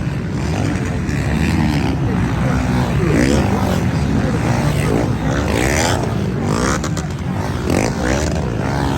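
Several off-road motocross motorcycles racing, engines revving up and down in overlapping waves as the bikes accelerate and shift.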